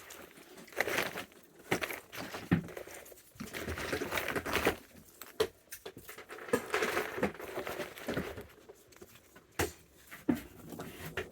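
Raccoons eating peanuts and treats: irregular crunching, crinkling and rustling broken by short sharp clicks.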